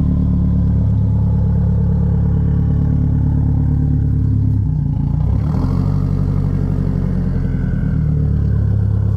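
A 2017 Subaru WRX STI's built turbocharged 2.5-litre flat-four idling steadily through an aftermarket cat-back exhaust. The idle note wavers briefly about five seconds in.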